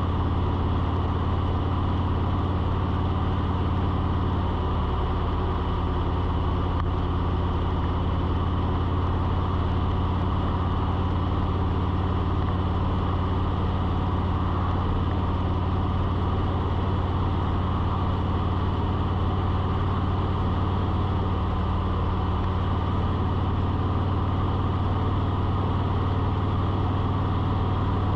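A steady, unchanging mechanical hum with a strong low drone and a few fainter steady tones above it, like a motor running at constant speed.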